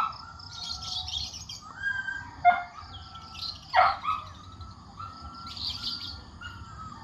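Birds chirping and calling: steady high twittering, with three louder calls, one at the start, one about two and a half seconds in and one near four seconds, each drawn out for about a second. A low steady rumble sits underneath.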